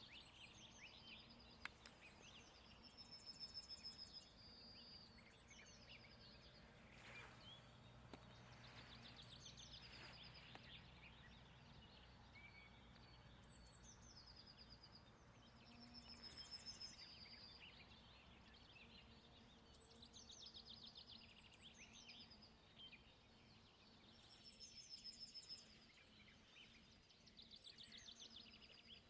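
Faint birdsong: several small birds singing short chirped and trilled phrases that repeat every few seconds over a quiet background.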